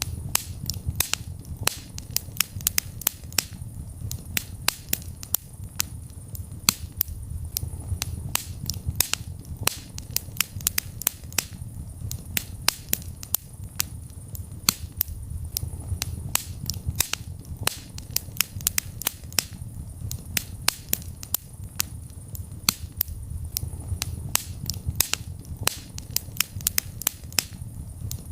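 Wood fire crackling in a fireplace: frequent, irregular sharp pops and snaps over a low rumble of the burning flames.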